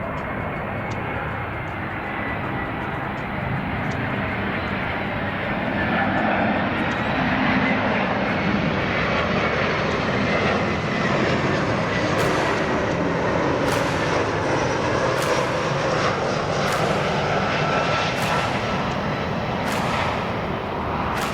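Airbus A319 jet engines whining and rushing as the airliner comes in to land, swelling to a peak about a third of the way through and staying loud. Faint regular ticks come in about every second and a half in the second half.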